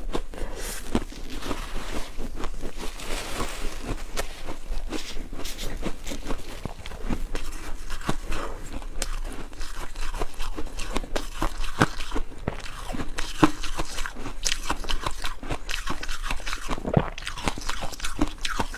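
Ice being bitten and chewed close to the microphone: a continuous run of irregular crunches and cracking snaps as the cubes break between the teeth.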